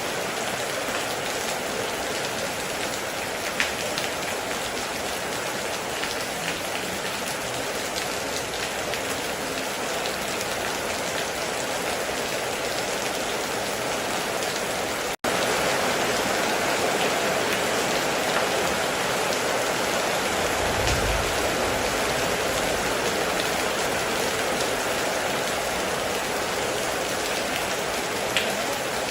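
Steady heavy rain on a metal roof, with a few sharp drips standing out. A brief low rumble of distant thunder comes about two-thirds of the way in. The sound cuts out for an instant about halfway through and comes back slightly louder.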